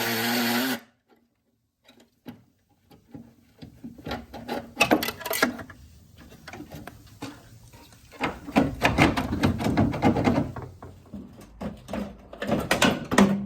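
A power tool runs and stops about a second in; after a brief pause come irregular metal knocks, rattles and scraping as the old front wing panel is worked free of the car body, busiest in the second half.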